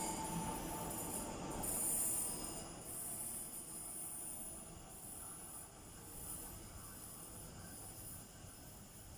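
Taiwan Railway 700-series electric multiple unit pulling away, its running noise dying down over the first few seconds. What remains is a faint, steady hiss of background noise.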